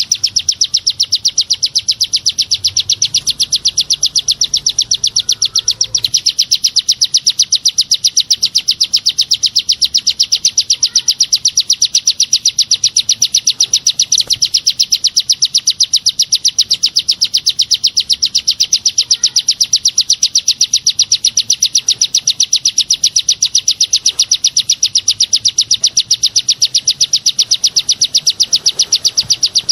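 Songbird 'tembakan' call used as a training (masteran) track for white-rumped shamas: one sharp high chirp repeated evenly several times a second in a fast, machine-gun-like series that never pauses.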